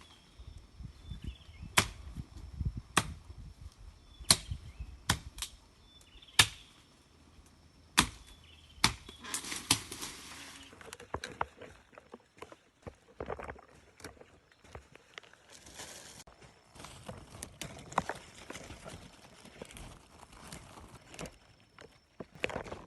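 Irregular sharp knocks or chops, about eight loud ones in the first nine seconds, followed by rustling and lighter, scattered clicks.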